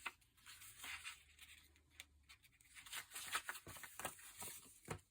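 Sheets of paper being handled, with a run of short, crisp rustling and tearing sounds, busiest in the second half.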